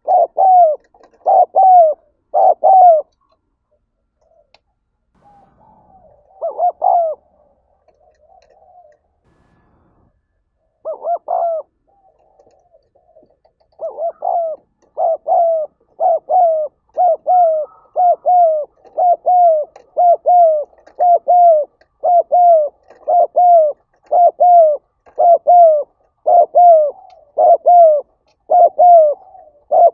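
Spotted dove cooing. A few scattered coos come first, then from about halfway a fast, unbroken run of short falling coos, about one and a half a second: the rapid urging call that keepers call "gáy thúc".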